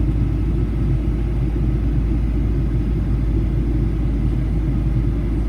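Steady low drone inside the passenger cabin of a Boeing 737-800, a constant rumble from its CFM56 engines and the airflow.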